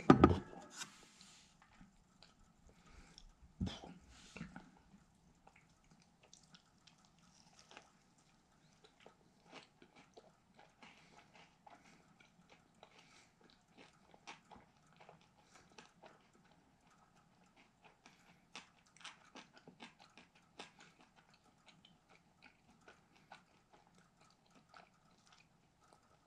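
Chewing and crunching of a crispy fried chicken sandwich: many small, irregular mouth clicks and crunches. A loud thump right at the start and a sharp knock a few seconds in stand out above the chewing.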